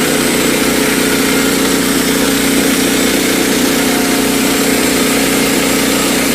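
Woodland Mills HM122 sawmill's engine running steadily, with an even, unchanging pitch.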